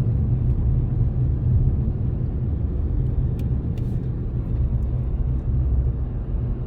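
Steady low rumble of a car driving, heard from inside the cabin: engine and tyre road noise, with two faint ticks about halfway through.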